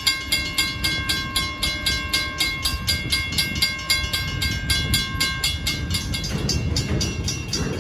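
Grade-crossing warning bell ringing in rapid strokes, about four a second, its ringing tones fading out about five seconds in, over the low rumble of a freight train's cars rolling through the crossing. The rumble grows louder near the end.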